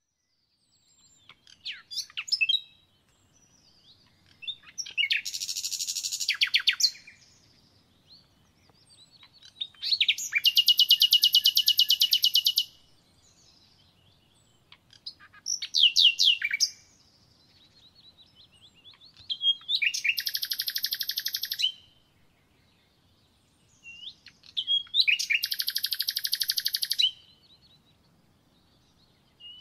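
A songbird singing in repeated phrases. Each phrase is a few high chirps running into a rapid, buzzy trill about two seconds long, and the phrases come about every five seconds.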